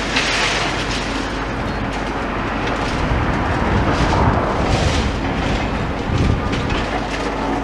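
Demolition excavator running and chewing through concrete: a continuous engine rumble with heavier surges about three seconds in and again near six seconds, and crunching, clattering debris.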